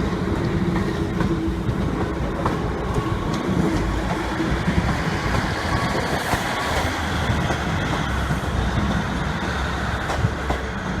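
Train moving slowly through the station: a steady rumble of wheels on rail with scattered clicks, and a faint humming tone that fades out in the first few seconds.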